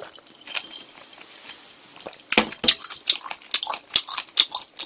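Close-miked chewing of spicy chicken: a quick run of smacks and clicks starting about two seconds in.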